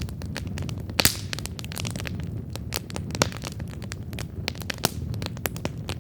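Wood fire burning, with irregular sharp crackles and pops over a low steady rumble of flame; the loudest pop comes about a second in.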